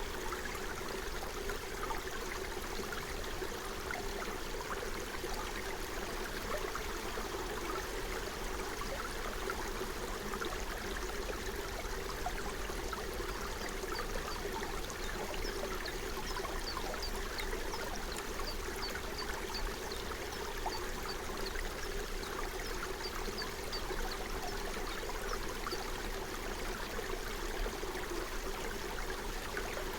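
Forest stream flowing steadily over stones, a continuous rushing babble. About midway a small bird adds a run of short, high chirps for several seconds.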